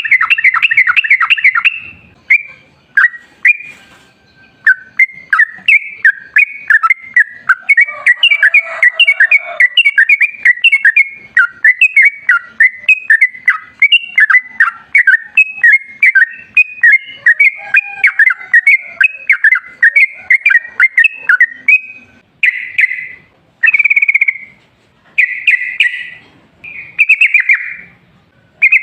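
Yellow-vented bulbul (trucukan) singing a long, rapid run of short bubbly warbled notes, breaking into separate short phrases with pauses near the end.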